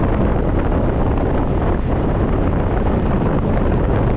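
Wind noise buffeting the microphone of a scooter rider at road speed, a loud, steady rush with the scooter's running underneath.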